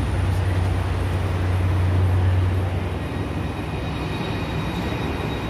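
Railway platform noise: a low, steady train rumble over a constant hiss, with the rumble fading about three seconds in.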